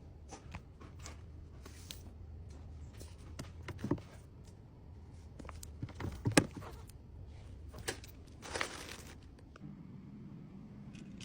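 Small items being handled and set down: scattered light taps and clicks, two sharper knocks about four and six seconds in, and a brief rustle of packaging near the end, over a low steady hum.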